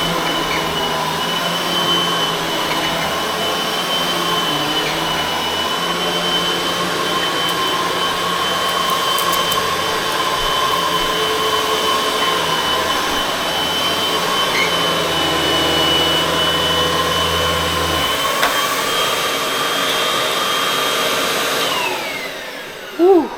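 Upright vacuum cleaner running steadily on a rug with a high motor whine and strong suction. Near the end it is switched off and the motor winds down with a falling whine, followed by a short thump.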